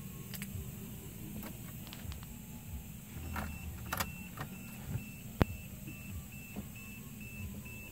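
Car warning chime beeping steadily at about two to three beeps a second from about three seconds in, over scattered clicks and knocks of keys and car controls being handled.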